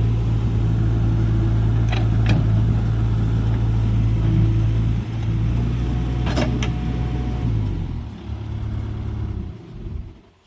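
Heavy diesel engine running steadily at a constant speed, then slowing down about three-quarters of the way through, with a few sharp metallic knocks along the way.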